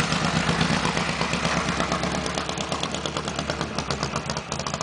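Ural motorcycle's flat-twin engine running at low revs with a rapid, even beat.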